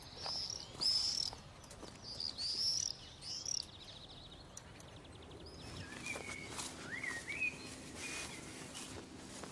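Songbirds singing: a run of high, arching whistled notes through the first few seconds, then lower chirps and rising notes past the halfway mark.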